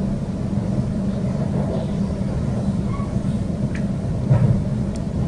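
Electric suburban passenger train running along the track, heard inside the carriage as a steady low rumble of wheels on rail, swelling briefly about four seconds in.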